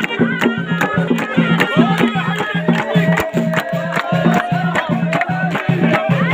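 Moroccan ghaita (reed shawm) playing a wavering folk melody over a steady drumbeat of about two to three strokes a second.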